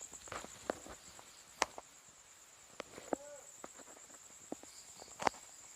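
Night insects, crickets, trilling steadily in a high, pulsing chorus. Over it come scattered footsteps and sharp rustles in the undergrowth, the loudest about five seconds in.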